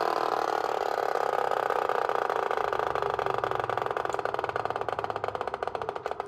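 Mattel Booster-Engine V-RROOM toy's flywheel-driven motor noisemaker running down after being spun by hand. It makes a rapid, even clatter like a little dirt bike engine, and the clicks slowly grow further apart and fainter as the flywheel loses speed.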